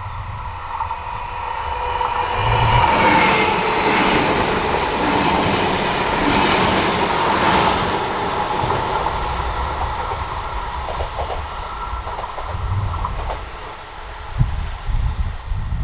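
Electric train passing on a mainline. It builds to a peak a few seconds in, with a steady whine and a higher tone that drops in pitch as it goes by, over rail and wheel noise, then fades away.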